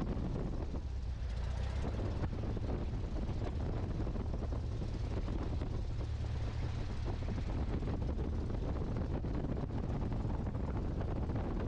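Great Lakes open-cockpit biplane's piston engine running steadily at low power, a constant low rumble with no change in pitch.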